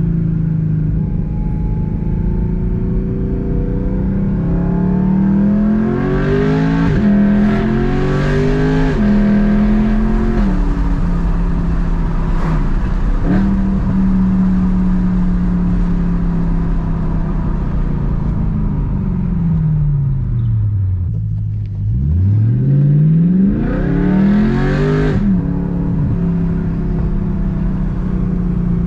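BMW E92 M3's 4.0-litre V8 with a loud exhaust, driving: steady running with revs climbing and dropping sharply a few times about seven to ten seconds in, a long fall in revs around twenty seconds, then a quick hard climb in revs.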